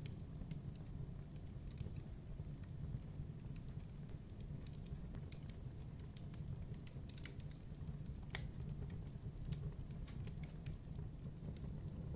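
Campfire burning: wood crackling and popping in irregular small snaps over a low steady rumble, with one sharper pop about eight seconds in.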